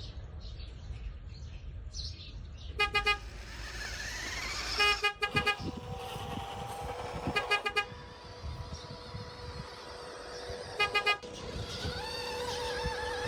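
Four short bursts of a pulsing horn toot, the loudest sounds, spaced a few seconds apart. Between them a small motor whines, rising and falling in pitch.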